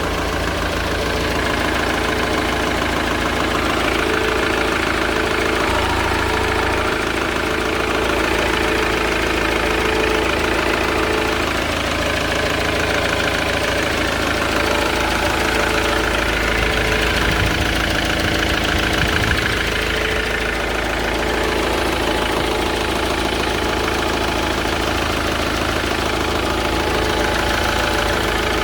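Mk7 Ford Transit's 2.4 TDCi four-cylinder diesel engine idling steadily.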